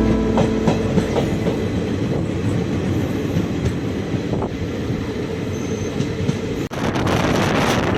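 Passenger train running on the rails: a steady rumble with a few faint wheel clicks. About two-thirds of the way in the sound breaks off for a moment, and a louder rush of wind on the microphone takes over.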